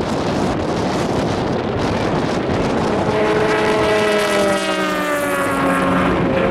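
A racing car's engine rises out of wind noise on the microphone about halfway through, and its pitch slides steadily down as it runs on.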